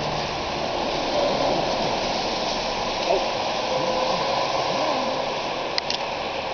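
Steady hiss of rain falling, with faint voices underneath and a couple of sharp clicks near the end.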